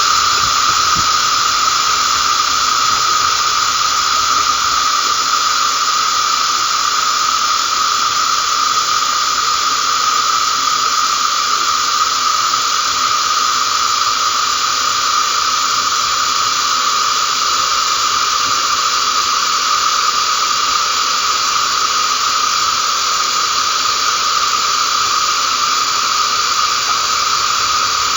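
Steady hiss of running water altered by a voice-changer effect, unbroken throughout, with a strong ringing band in the middle of its pitch range.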